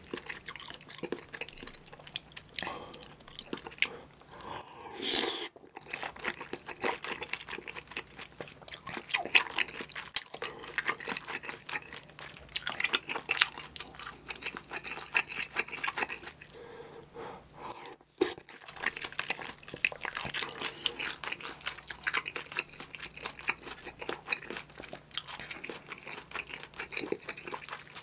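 Close-up eating sounds of a person chewing spicy kimchi stew with rice: a steady run of wet mouth clicks and crunches, broken by two brief pauses.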